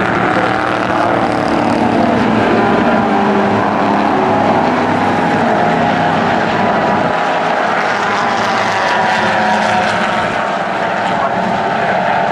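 Several race cars' engines running together on the circuit, a loud steady mix of engine notes at racing speed.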